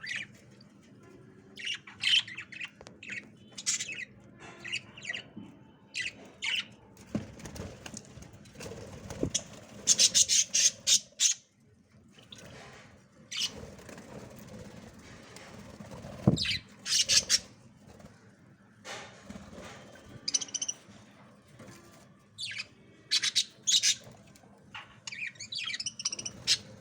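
Budgies chirping and squawking in short, irregular bursts, with the loudest clusters about ten and sixteen seconds in.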